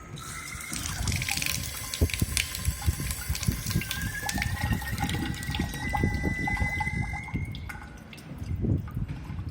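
Water faucet with water running and dripping, and a thin high-pitched whistle that rises slightly in pitch and stops near the end. The owner suspects a hardened, worn rubber washer or a faulty ceramic valve inside the tap.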